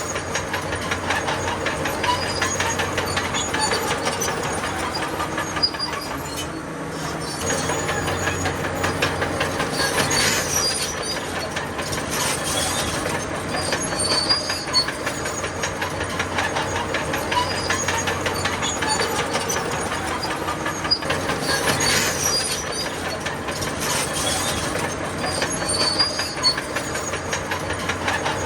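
Crawler bulldozer working: its diesel engine runs steadily under dense, constant clanking from its steel tracks, with brief squeals every so often.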